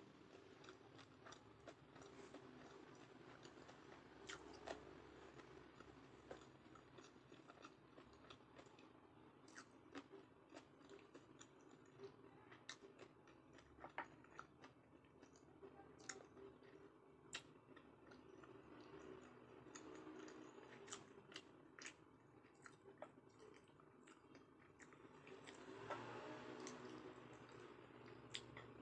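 Faint close-miked chewing of sushi, with many small sharp clicks and smacks scattered through it.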